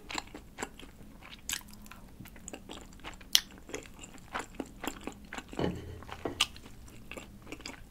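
Close-miked chewing of soft, chewy wheat-flour rice cakes in a creamy sauce: irregular wet mouth clicks and smacks, with one sharper click near the middle.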